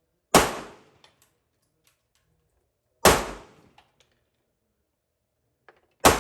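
Three pistol shots from a Glock-pattern handgun, spaced about three seconds apart. Each is a sharp crack with a short fading echo, followed by a few small clicks.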